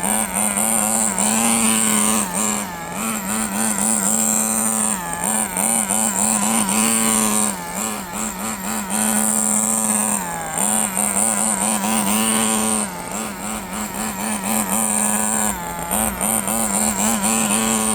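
Kyosho FW06 RC touring car's small nitro engine running during break-in, a steady buzz with a high whine on top. The revs dip briefly and pick up again every two to three seconds.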